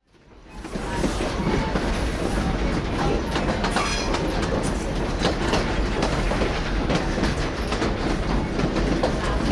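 Train rolling along the track: a steady rumble with frequent clicks of the wheels over the rails, fading in within the first second.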